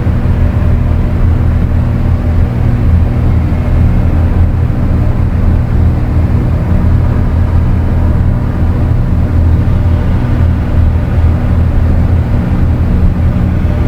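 Dark ambient electronic drone: a loud, steady low rumbling drone with a dense noisy wash over it, unchanging throughout.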